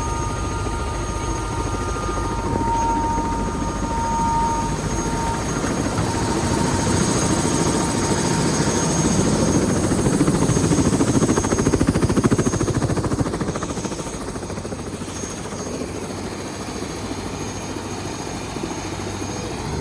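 Helicopter running: rapid rotor-blade chop with a steady turbine whine. It grows louder toward the middle, then eases off, and the highest whine tone fades out about a quarter of the way in.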